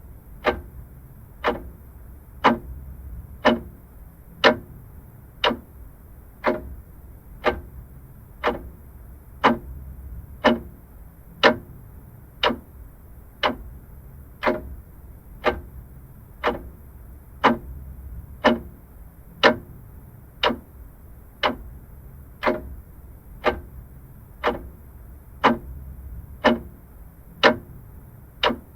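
Vintage mechanical clock ticking steadily, about one sharp tick a second, over a faint low hum.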